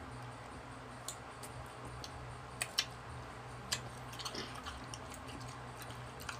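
Chewing and wet mouth noises of people eating mango slices, with scattered sharp clicks. Under them runs the steady low hum of an electric stand fan.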